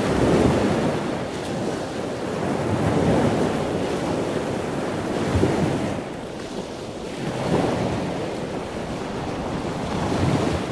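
Rushing, washing water like surf, swelling and easing every couple of seconds.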